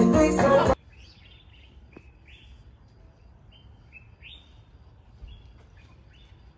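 Music with singing and guitar that cuts off abruptly under a second in. After it, quiet bird chirps: a dozen or so short, high calls, a few every second.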